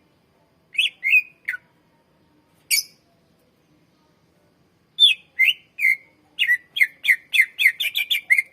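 Cucak ijo (green leafbird) singing: a few sharp, down-slurred whistled notes, a pause, then from about halfway a fast string of them that quickens toward the end.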